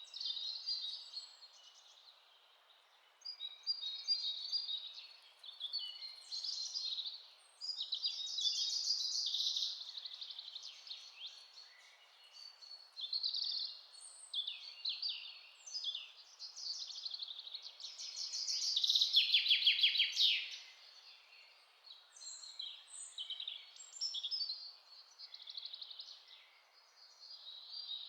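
Several songbirds chirping and singing in a forest, their calls overlapping, with a loud fast trill about two-thirds of the way through, over a faint steady hiss.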